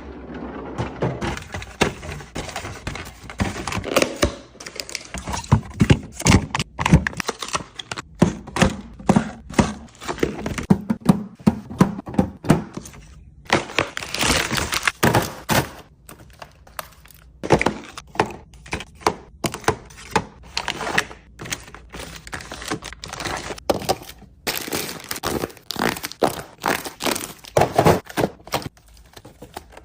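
Food containers and packaging being handled and set down: a dense run of knocks, clicks and thunks, with stretches of rustling.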